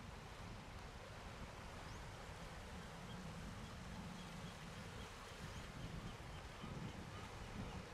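Faint outdoor ambience: a low steady rumble with scattered small bird chirps high above it, including a short run of quick even peeps in the middle.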